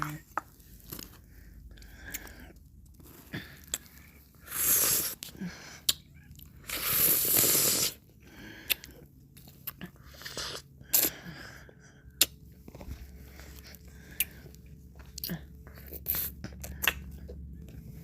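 Close-miked mouth sounds of eating ice cream: sharp wet clicks and smacks throughout, with two longer, louder licks about five and seven seconds in.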